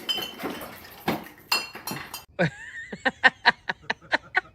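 Hard tableware clinking and clattering, a few ringing knocks, followed by a quick even run of sharp taps, about four or five a second.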